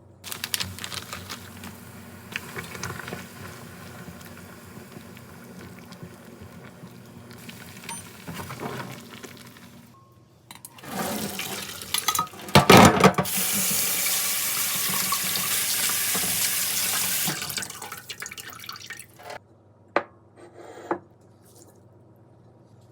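Kitchen tap running into a sink: a steady rush of water that cuts off after about four seconds. Knocks and clatter come just before it.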